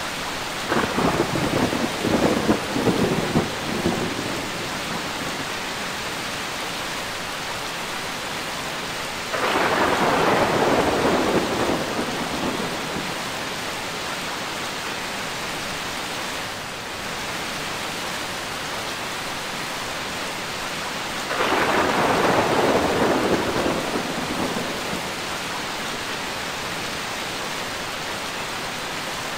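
Steady heavy rain with thunder three times: a crackling peal of several sharp cracks just after the start, then rolling rumbles about ten seconds in and again past twenty seconds.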